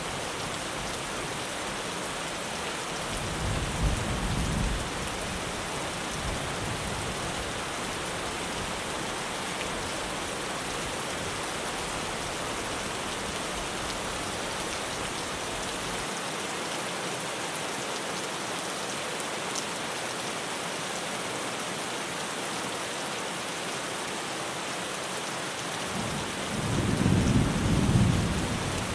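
Steady heavy rain drumming on a tin roof, with a low thunder rumble a few seconds in and a louder one building near the end.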